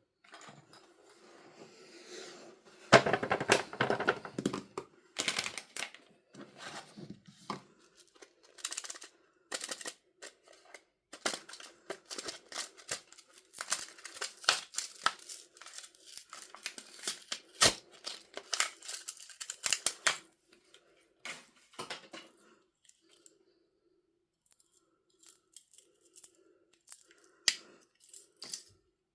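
Packaging being opened by hand: crinkling and tearing, with irregular taps and clicks, busiest in two stretches and thinning to scattered taps near the end.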